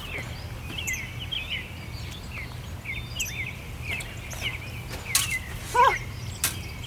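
Small birds chirping: many short, quick chirps, some rising and some falling, over a steady low background rumble. Two sharp clicks come near the end.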